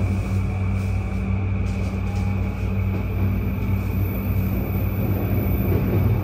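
Interior running sound of a JR East E235-1000 series electric train in motion: a steady rumble of wheels on rail with a low hum and a faint steady high whine.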